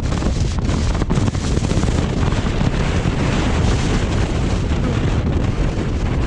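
Strong mountain wind battering the microphone: a loud, continuous rumbling roar, heaviest in the low end.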